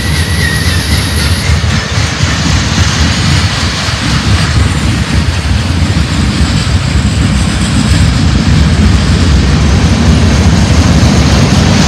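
Freight cars of a manifest train rolling past close by: a steady, loud rumble of steel wheels on the rails. A faint high squeal fades out about a second in.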